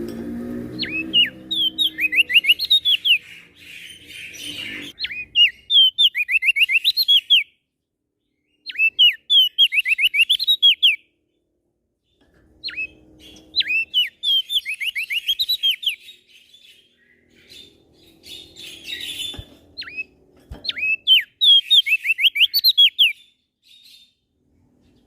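Prenjak daun songbird singing: repeated fast phrases of sharp, high, gliding chirps, each lasting about two seconds, with short pauses between them.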